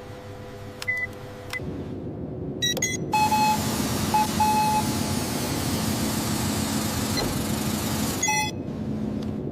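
Automated factory machinery: short electronic beeps over a low steady machine hum. About three seconds in, a loud even hiss starts, carrying a few more beeps, and it stops shortly before the end.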